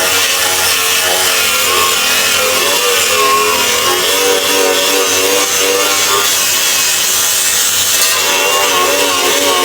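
A power tool cutting or grinding metal, running steadily with its pitch wavering up and down as the load changes.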